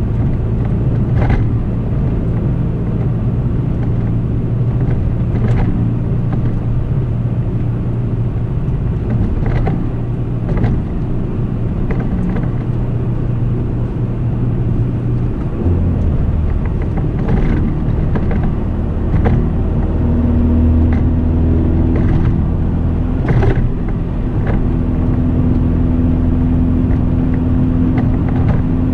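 Turbocharged 2.0-litre four-cylinder (LNF) engine of a tuned Chevrolet Cobalt SS cruising, heard from inside the cabin as a steady low drone with road noise. About halfway through, the engine note steps down to a lower pitch, and a few short clicks are scattered through.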